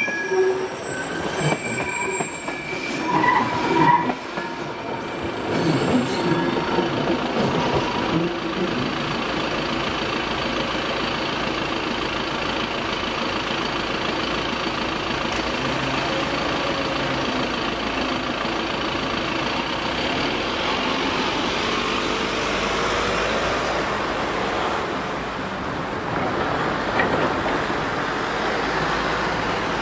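BLS NINA electric multiple unit clattering past on the rails with squealing wheels for the first several seconds, then giving way to a steady background noise. Near the end a van's engine is heard as road traffic moves off over the crossing.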